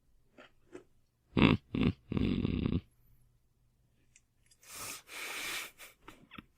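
A man's grunts and a snoring snort from someone who has just passed out asleep, then a long breathy exhale.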